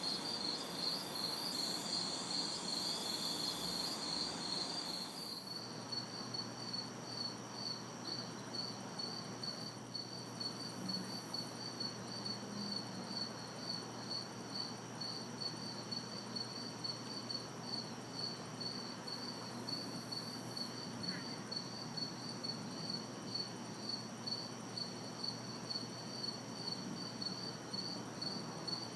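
Crickets chirping in a steady, regular rhythm, with a higher insect buzz that stops about five seconds in, over a faint even hiss of distant city traffic.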